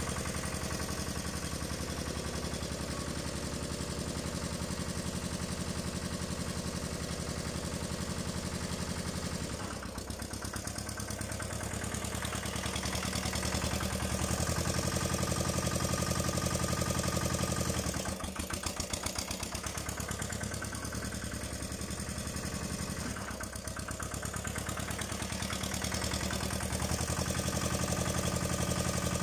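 Engine of a 1982 Tomo Vinkovič TV 522 mini tractor running steadily. Its level and pitch shift a few times, dipping briefly about 10 s, 18 s and 23 s in and picking up again afterwards, as the throttle or load changes.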